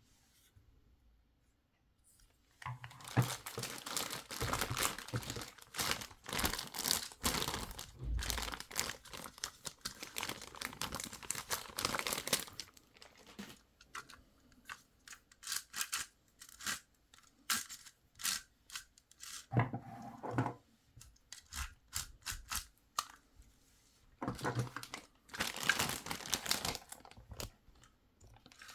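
Plastic toy packaging being handled, crinkling and tearing in bursts of crackle with scattered clicks between, starting a couple of seconds in and returning near the end.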